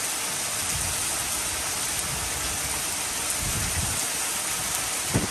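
Heavy wind-driven rain pouring down steadily, with gusts of wind rumbling on the microphone and a short knock near the end.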